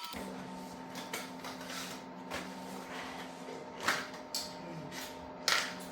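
A few short light knocks and clicks over a steady low hum.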